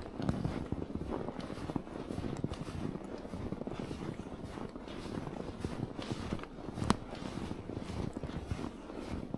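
Footsteps crunching through snow, a dense run of small irregular crunches, with one sharper, louder crack about seven seconds in.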